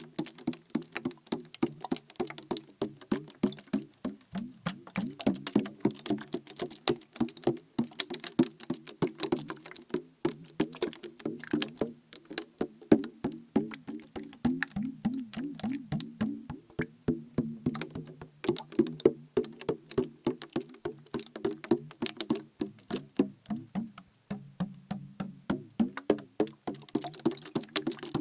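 Plastic bottle partly filled with liquid being tapped rapidly, many sharp taps a second, with the liquid sloshing inside in a wavering low tone.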